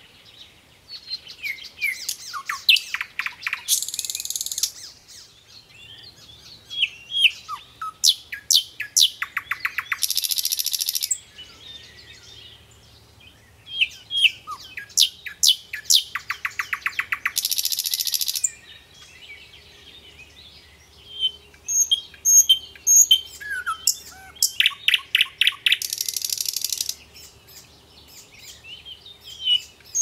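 Songbird singing in repeated phrases of quick high chirps, each phrase running into a rapid trill and a buzzy rattle, about every seven or eight seconds.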